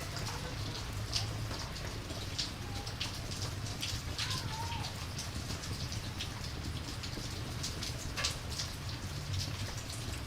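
Rain and campfire ambience: a steady rain wash with frequent short, sharp crackles scattered through it.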